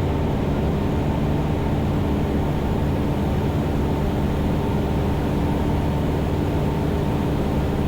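Cessna 172's piston engine and propeller running steadily in cruise flight, heard inside the cabin as an even drone.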